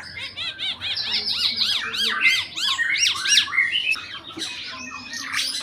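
Caged 'burung ara mata merah' (figbird) singing a fast, varied song: rapid runs of repeated arched chirps and whistles that change phrase every second or so, typical of a bird in full song with many mimicked phrases.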